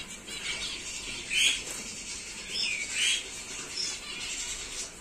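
Birds chirping: a few short calls, the louder ones about one and a half, two and a half and three seconds in, with fainter high peeps between.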